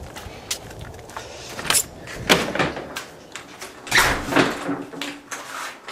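A few knocks and short scraping sounds, the loudest about two and a half and four seconds in, over a low rumble that fades out.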